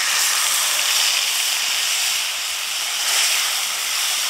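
Watered mustard and poppy seed paste hitting hot mustard oil in a steel wok, sizzling loudly and steadily as it is stirred with a metal spatula.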